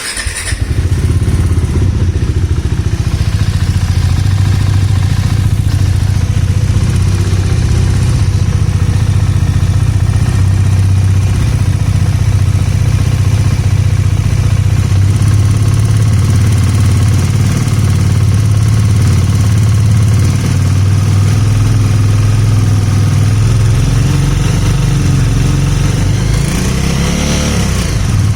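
Bajaj Dominar 400 motorcycle's single-cylinder engine starting and then idling steadily, with a brief rise and fall in revs near the end. It carries an irregular engine ticking that the owner took for a fault in the engine head.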